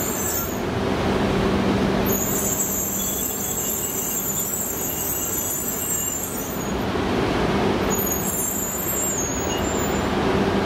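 E926 East-i Shinkansen inspection train rolling slowly along the station platform, a steady rumble of running noise with a low hum. A high-pitched squeal from the wheels or brakes comes and goes three times.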